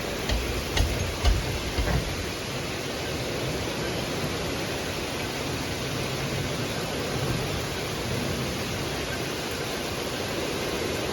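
Heavy downpour: a steady hiss of rain and running water, with a few low thumps in the first two seconds.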